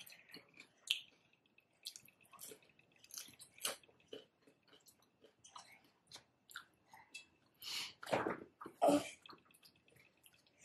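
Close-up chewing of thick tortilla chips: scattered crisp crunches and mouth sounds, with two louder crunches about eight and nine seconds in.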